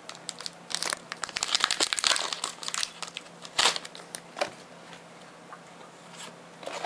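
Pokémon booster pack wrapper being torn open and crinkled: a run of crackly rustling bursts in the first couple of seconds, then a few single crinkles, with the sound dying down near the end.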